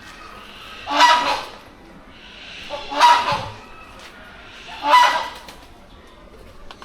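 A large bird giving a loud, harsh call three times, about two seconds apart, each call lasting about half a second.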